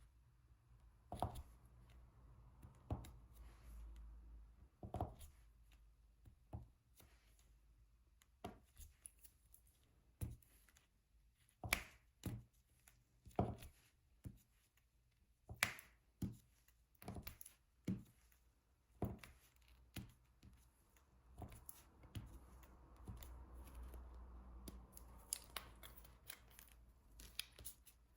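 Diamond painting pen pressing resin drills onto the adhesive canvas: faint, irregular sharp taps and clicks, about one or two a second.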